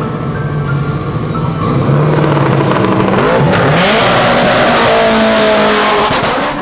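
A car engine revving, its pitch rising, under a loud rushing noise that builds about two seconds in and cuts off shortly before the end.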